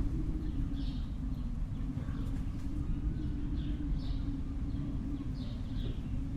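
Small birds chirping, short falling calls about once a second, over a steady low rumble of outdoor background noise.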